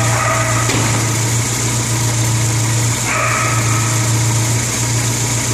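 1974 BMW 2002 tii's fuel-injected four-cylinder engine idling steadily after starting. A steady high whine rides over it at the start and again from about three seconds in.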